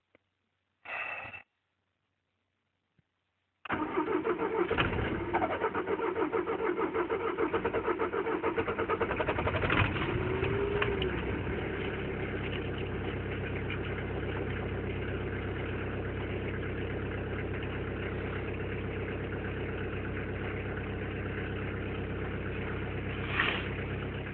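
Toyota Corolla E11's 1.9 litre PSA DW8 diesel engine cold-starting about four seconds in at around freezing after a frosty night. It runs loud and uneven for several seconds, then settles into a steady idle.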